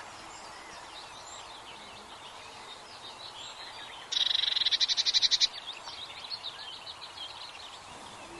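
Many small birds chirping. About four seconds in, a louder rapid trill of about ten pulses a second lasts just over a second.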